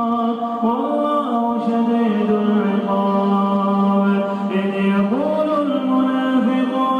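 Quran recitation by a man's voice, chanted in long held melodic phrases with slow rises and falls in pitch, with no pause.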